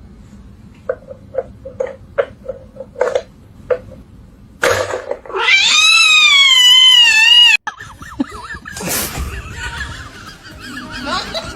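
A loud, long animal call lasting about two seconds, rising and then wavering in pitch, and cut off abruptly. Before it comes a run of about eight short, quick sounds.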